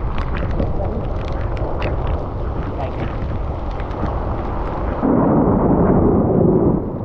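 Wind and road noise on a camera riding a bicycle through heavy rain, with many short sharp taps. About five seconds in, a louder deep rumble lasts roughly two seconds.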